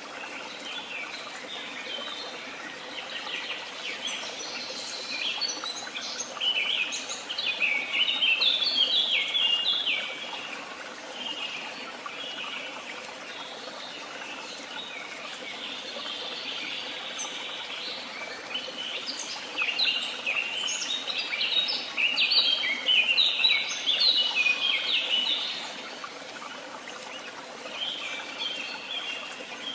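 Wild songbirds singing, with quick runs of high notes over a steady background hiss. The song swells twice, about four seconds in and again around twenty seconds in, each time for several seconds.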